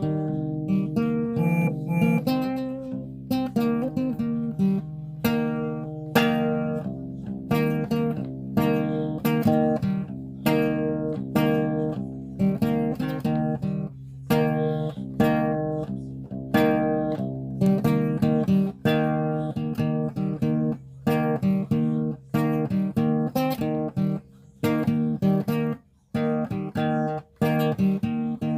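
Acoustic guitar playing an instrumental piece, a run of plucked notes over sustained low notes, with a few brief pauses between phrases.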